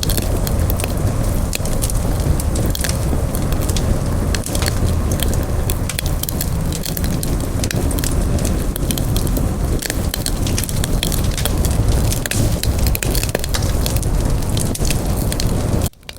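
Wood campfire burning with a steady low rumble and many sharp crackles and pops. The sound drops out suddenly for a moment near the end and then comes back.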